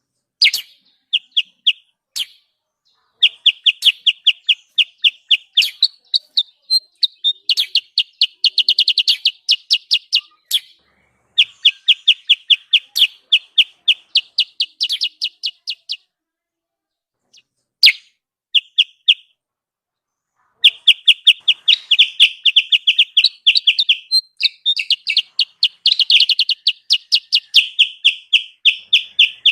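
Kutilang sutra (mountain serin) lure call. Rapid trains of short, high chirps come several a second, in bursts with a couple of brief pauses. The chirping is densest near the end.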